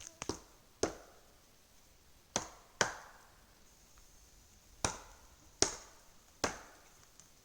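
A series of seven sharp strikes, mostly in pairs about half a second apart, each dying away quickly: hammering or chopping blows.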